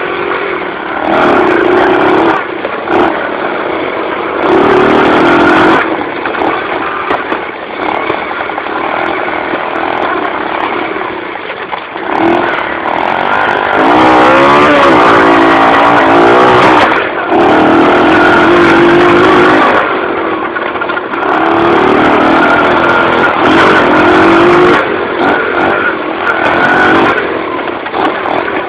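Dirt bike engine on the move, revving up and easing off over and over, with several louder bursts of throttle where the pitch climbs and drops.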